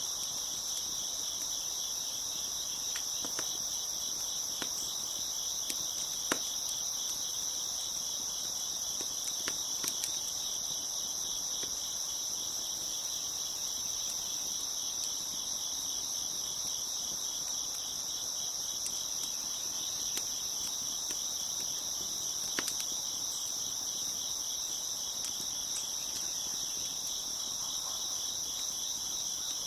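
Dense, steady chorus of crickets chirping, with a few sharp crackles and pops from a wood fire scattered through, the strongest a little after six seconds in and about twenty-two seconds in.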